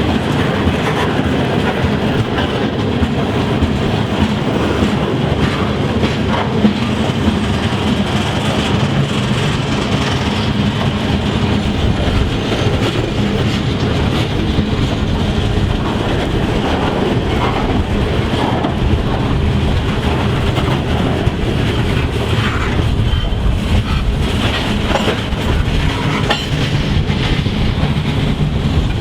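A train's cars rolling past at close range, the wheels clacking steadily over the rail joints.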